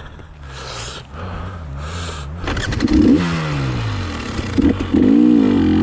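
KTM 300 XC-W TPI two-stroke dirt bike engine running, revved up from about two and a half seconds in, its pitch rising and falling with the throttle. Two heavy breaths from the exhausted rider in the first two seconds.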